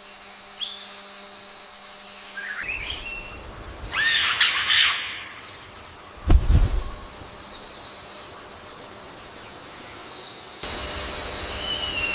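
Wild birds calling: short whistles and rising glides, then a louder, harsher call about four seconds in. A brief low thud comes midway, and near the end a steady high-pitched background of several level tones sets in.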